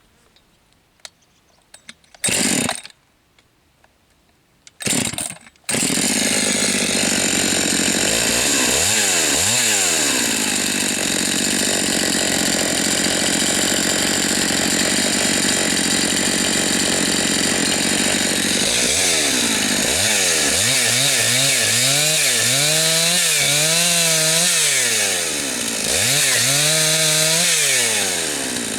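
Husqvarna 272XP two-stroke chainsaw being started: two short bursts as it is pulled over, then it catches about five seconds in and keeps running to warm up. Near the end the throttle is blipped over and over, the engine pitch rising and falling each time.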